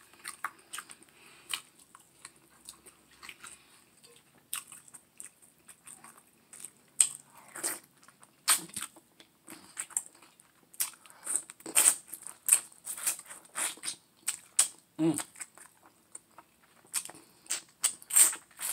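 Close-up mouth sounds of eating a sauced turkey leg: chewing and biting, with many irregular sharp, wet clicks.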